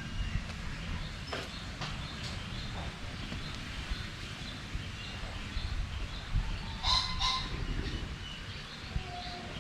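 Birds chirping and calling here and there, with one louder call about seven seconds in, over a steady low rumble.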